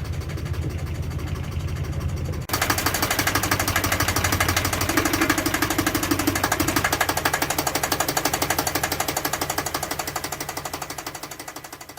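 A boat engine running steadily with an even, rapid pulse. About two and a half seconds in, the sound changes abruptly and gets brighter, then it fades out near the end.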